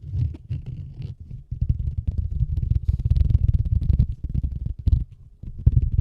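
A key case being handled and rubbed right against a microphone, sped up: a dense, fast low rumbling with quick scratchy crackles over it, easing off briefly about five seconds in.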